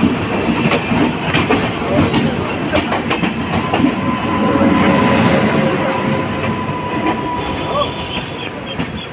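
Rumble and clatter of passenger-train coaches running past on the adjacent track, with rapid clicks of wheels over rail joints and a thin, steady wheel squeal from about four seconds in. The noise drops off near the end as the last coach clears.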